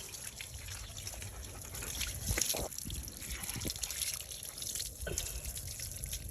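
Water trickling and dripping, with small irregular splashes.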